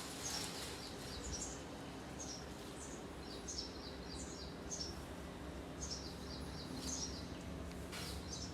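Small birds chirping, short high calls repeating in quick clusters, over a steady low background rumble.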